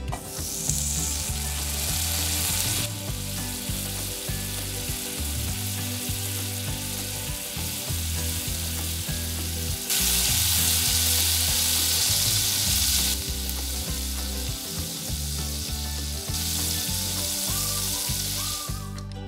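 Food frying in oil in a miniature pan: a steady sizzling hiss that steps louder and softer several times. Soft background music sits underneath.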